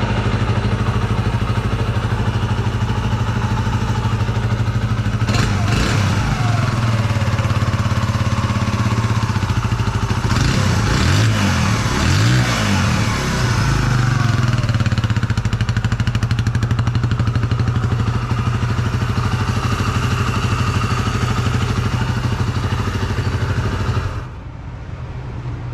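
2005 Kawasaki KLX125's single-cylinder four-stroke engine running on its freshly rebuilt top end (new cylinder and piston), idling steadily with a few revs around the middle. The sound drops suddenly in level near the end.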